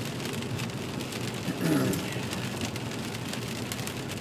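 Rain on a moving car heard from inside the cabin: many small ticks of drops over a steady wash of driving noise. A brief hum of a voice comes about one and a half seconds in.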